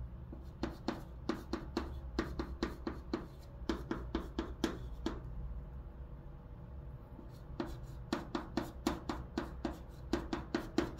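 Chalk writing on a blackboard: quick runs of sharp taps as strokes are put down, with a pause of about two seconds in the middle.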